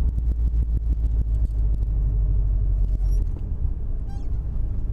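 Subaru WRX's turbocharged flat-four engine and exhaust giving a steady low rumble while driving; the rumble eases a little about three seconds in.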